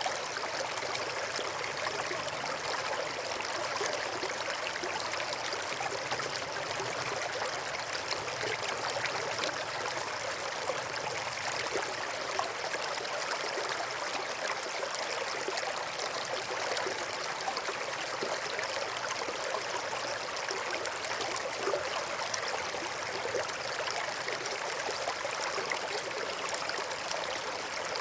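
Small stream flowing steadily over stones, a continuous babble and trickle of water with no breaks.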